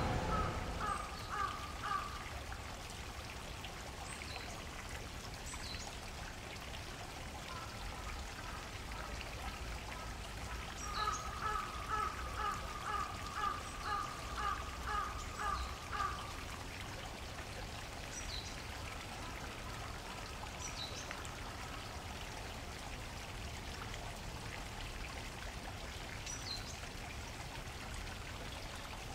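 Water flowing steadily. A bird gives a short run of quick repeated calls just after the start and a longer run of about a dozen calls in the middle, with faint high chirps of small birds scattered throughout.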